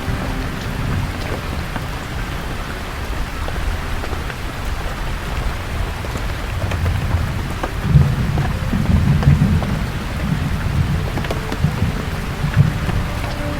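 Steady rain falling, with scattered drops ticking close by. About eight seconds in, a low roll of thunder swells and rumbles on for several seconds before easing.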